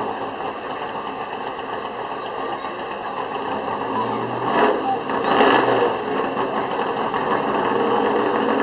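Pulling-truck engine running at a distance, a steady buzzing note, with a brief louder rush of sound about five seconds in.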